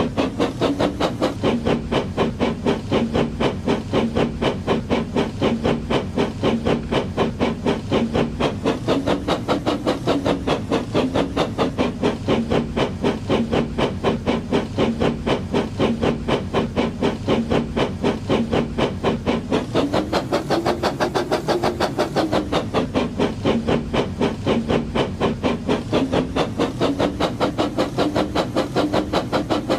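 The Labo brick train's engine running with a steady chugging beat, about four to five beats a second. Its pitch rises briefly about two-thirds of the way through.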